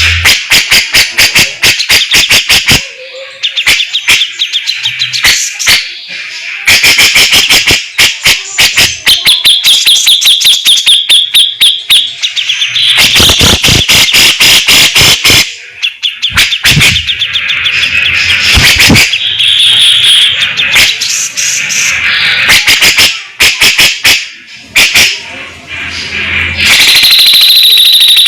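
Cucak jenggot (grey-cheeked bulbul) singing loudly in fast runs of sharp, stuttering notes broken by short pauses, with a held high whistle near the end.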